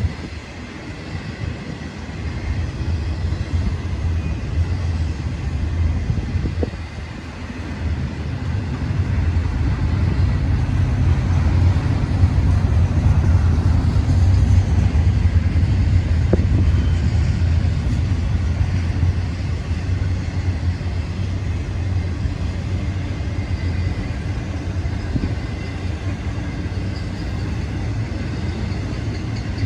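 Low, steady vehicle rumble that builds to its loudest about halfway through and then eases off.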